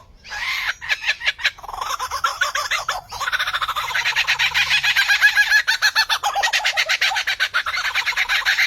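A bird calling in a rapid run of short, hen-like clucking notes, many a second, after a brief pause near the start.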